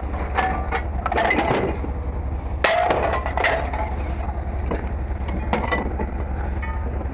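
Scrap auto parts clanking and knocking as they are handled and dropped: a string of irregular sharp impacts, some ringing briefly, the loudest a little before the middle, over a steady low hum.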